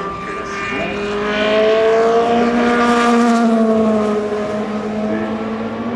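Race car engine passing at speed, growing louder to a peak about halfway through and then fading as its pitch drops.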